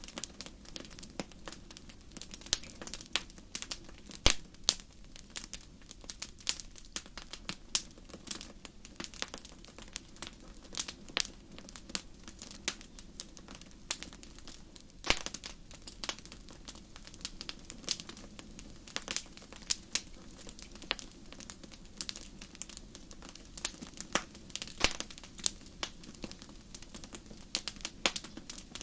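Fireplace fire crackling: irregular sharp pops and snaps, several a second and some louder than others, over a faint low hiss.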